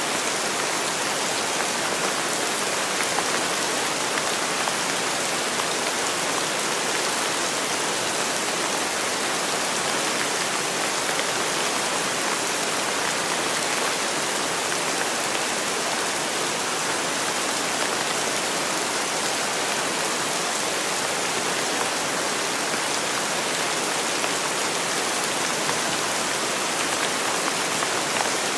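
Steady rain falling, an even hiss of many drops hitting a surface, with no change in strength.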